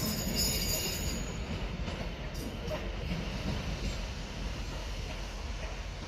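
Train moving along the platform tracks, a steady rumble with high wheel squeal in the first second, the whole slowly fading.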